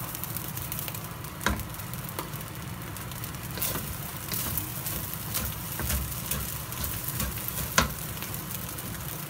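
Beef fried rice sizzling in a stainless steel pan while a wooden spatula stirs and tosses it, with a few sharp knocks of the spatula against the pan, the loudest near the end.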